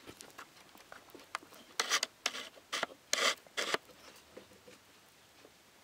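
Guinea pigs crunching chicory, with a quick run of crisp bites from about two seconds in to just before four seconds, and faint small chewing and rustling sounds around them.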